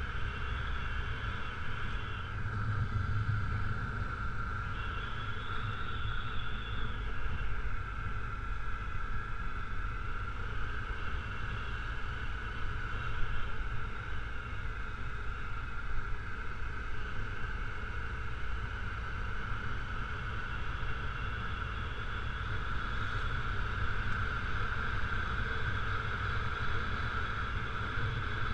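Honda CRF250L's 250 cc single-cylinder four-stroke engine running steadily while riding along a gravel road, with a low rumble under it.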